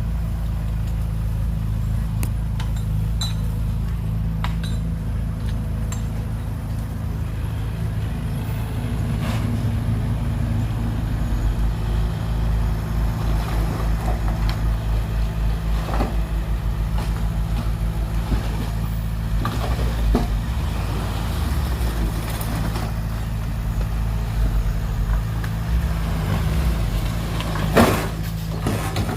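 Heavy diesel engine of earthmoving machinery running steadily, with a throbbing stretch partway through, scattered clanks, and a louder clank near the end.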